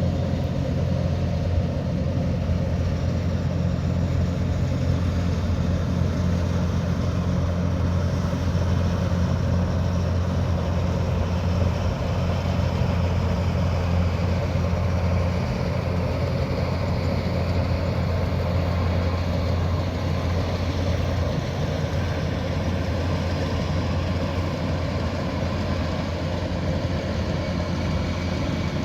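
Diesel engine of a Kubota DC108X combine harvester running steadily with a deep, even hum; the low hum eases slightly about halfway through.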